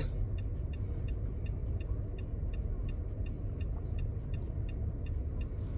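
Car cabin sound of a car driving slowly: a steady low engine and road rumble, with a turn signal ticking evenly at about three clicks a second.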